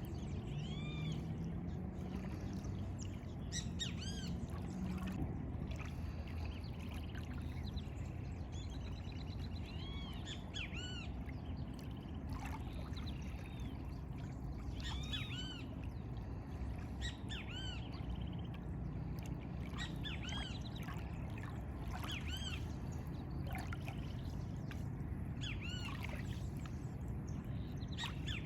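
Several birds singing, with clusters of short, arched chirping notes repeating every few seconds, over a steady low background rumble.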